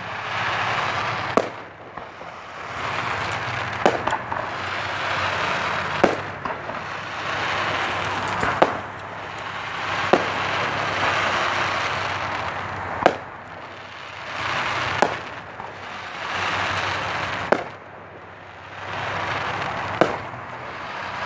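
Aerial fireworks going off in a steady run: a sharp bang about every two seconds, each followed by a second or so of hiss as the white burst spreads.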